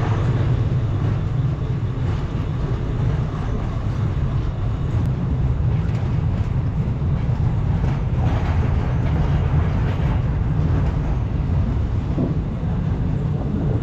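Passenger train's sleeper coach running out of the station: a steady, loud rumble of the wheels on the rails, heard from the open coach door.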